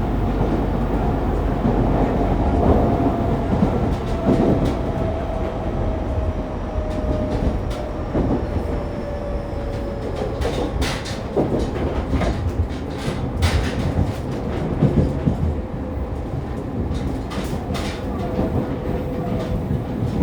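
Running sound inside a Fukuoka City Subway 2000 series car with a Hitachi late-type GTO-VVVF inverter, heard between stations: a steady rumble of wheels and motors with a thin motor tone that glides slowly downward over the first half. Sharp clicks and knocks from the track come through in the second half.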